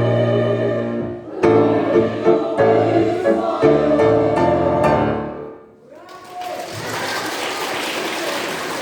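A choir with instrumental accompaniment sings the closing chords of a song, ending about five and a half seconds in. A moment later steady audience applause starts and carries on.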